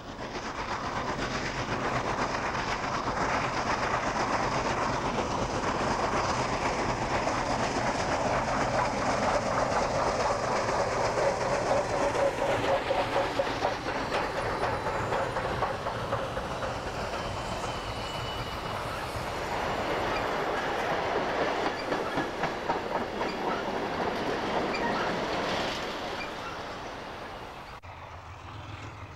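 A freight train rolling past, its wheels making a fast, continuous clickety-clack over the rails. The sound swells in the first second and fades near the end. A brief high tone, like a wheel squeal, comes a little past halfway.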